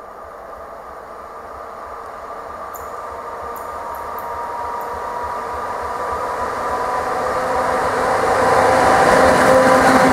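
Electric locomotive hauling a freight train of tank wagons, approaching and growing steadily louder as it nears. Steady humming tones sit over the running noise of the train.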